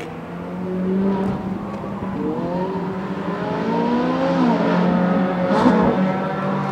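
Ferrari 458 Italia's naturally aspirated V8 engine revving as the car drives on the track. Its pitch climbs for a couple of seconds, drops about four and a half seconds in, and a brief hissing burst follows soon after.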